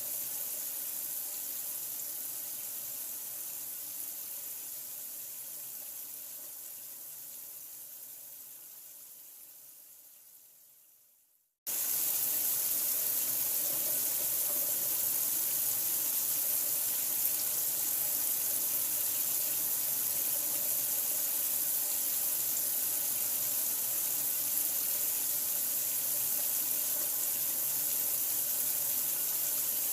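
Steady running water, a bright, even hiss like a tap running. It fades away over about eleven seconds to a moment of silence, then starts again abruptly at full level and runs on steadily.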